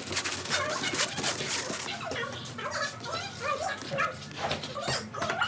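A dog whimpering and yipping in short cries that rise and fall, with light clicks in between.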